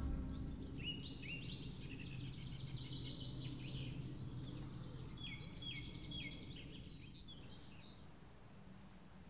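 Small songbirds chirping in a busy chorus of short, quick, downward-sliding calls that die away near the end, over a low steady background rumble.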